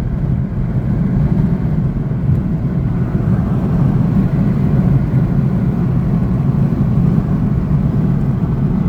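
Inside the cabin of a Volkswagen 2.5 sedan with a five-cylinder engine, accelerating hard in sports mode up towards highway speed. The engine and road noise make a steady, heavy low rumble.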